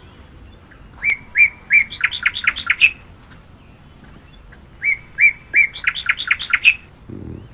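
A songbird singing twice, each phrase a few spaced chirps that quicken into a fast run of notes.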